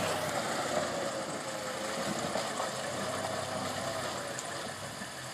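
Land Rover Series engine running at low revs as the vehicle crawls over rocks and mud in a creek bed, a steady engine note that eases off slightly near the end.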